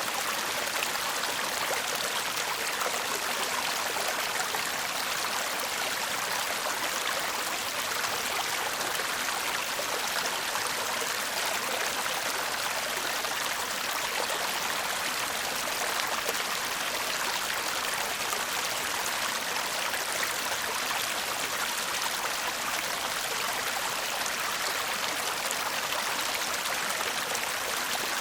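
Shallow stream babbling and trickling over stones, a steady, even rush of water with no break or change.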